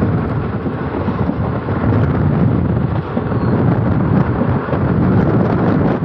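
Express train running, with wind rushing over the microphone on top of a steady rumble.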